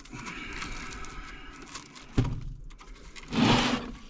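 Handling noise from a metal chimney bird guard: a sharp knock about two seconds in, then a short, loud rustle about a second later.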